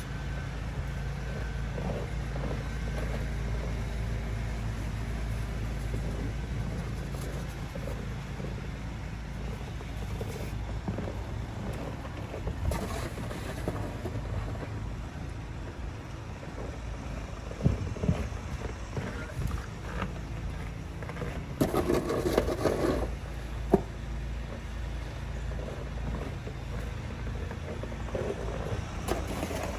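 Snow shovel scraping and knocking on a snowy porch now and then, with a louder stretch of scraping about three quarters of the way through. A steady low rumble sits under it all.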